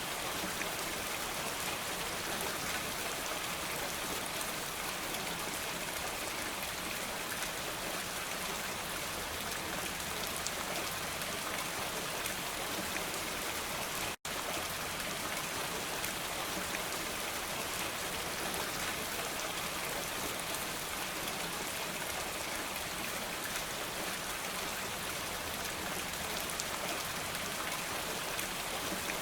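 Steady, dense rain falling, an even hiss that cuts out for an instant about halfway through.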